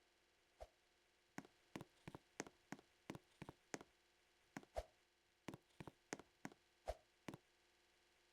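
About twenty light clicks and taps at an uneven pace, a few of them carrying a dull thump, against near silence.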